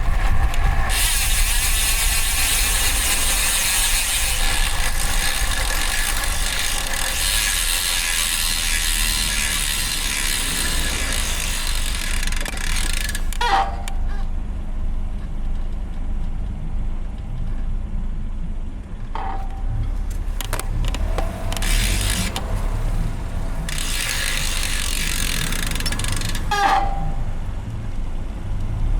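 Road bike's DT Swiss ratchet freehub buzzing while the rider coasts, a dense high-pitched ticking buzz for most of the first half. It stops for several seconds, then comes back in two shorter spells near the end, over steady tyre and road rumble.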